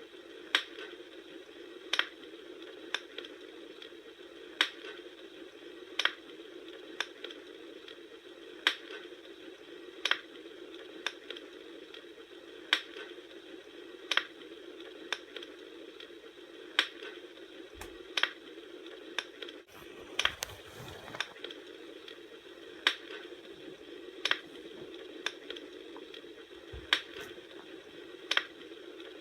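Wood fire crackling: a steady hiss with sharp, irregular pops about once a second, and a brief duller rush of noise about twenty seconds in.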